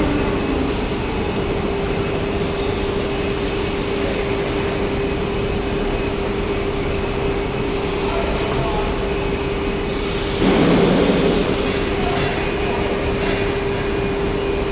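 CNC router with a carousel automatic tool changer running, its spindle giving a steady whine over machine noise. About ten seconds in there is a loud hiss lasting roughly a second and a half.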